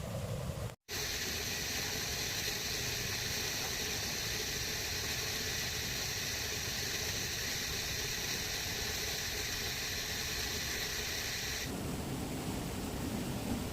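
Steady high hiss that starts abruptly after a brief dropout about a second in and stops abruptly near the end.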